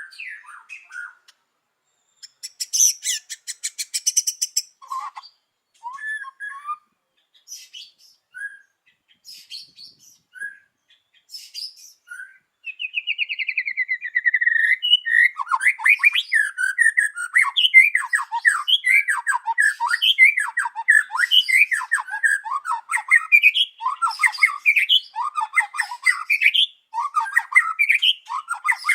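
White-rumped shama singing: scattered short calls and a harsh, buzzy rattle at first, then from about halfway a fast, unbroken run of varied whistled phrases.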